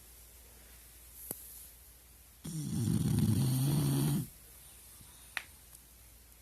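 A dog snoring: one long, low snore of nearly two seconds, starting about two and a half seconds in, with a faint tick shortly before and after it.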